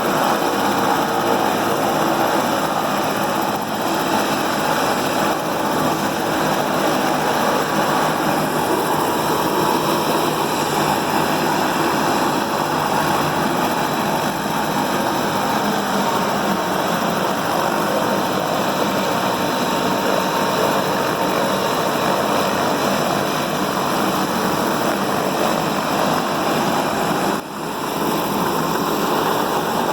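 Helicopter running close by: a steady, loud rotor and turbine noise, with a brief dip a couple of seconds before the end.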